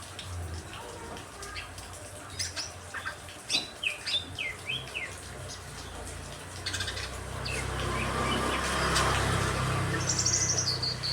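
Caged songbirds chirping and calling in short, quick notes, with wings flapping. A broad rushing hiss builds up about seven seconds in and fades near the end.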